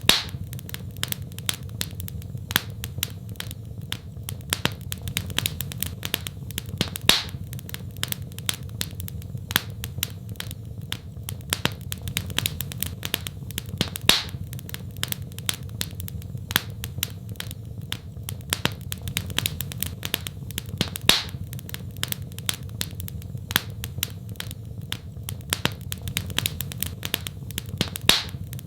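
Wood fire crackling in a fireplace: dense, irregular small snaps over a steady low rumble, with a louder pop about every seven seconds.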